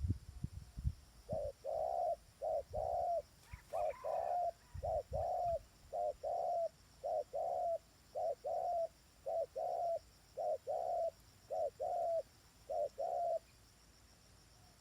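A bird calling in a low, dove-like coo: a pair of short notes repeated eleven times at an even pace, about one pair a second, stopping near the end. A few low thumps at the very start and a single click about four seconds in.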